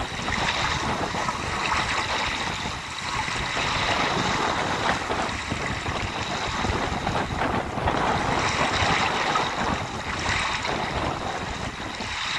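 Sea waves breaking and washing onto the shore, several surges a few seconds apart, with wind gusting over the microphone.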